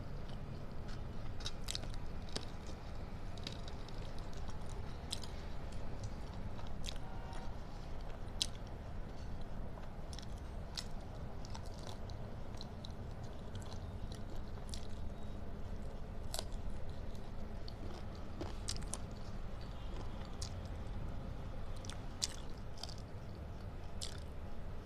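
Close-miked chewing and biting of food, mukbang-style, with irregular sharp crunches and smacks about once a second over a steady low hum.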